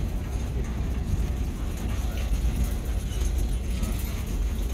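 Passenger train running along the track, heard from an open-air car: a steady low rumble with faint, irregular clatter from the wheels and cars.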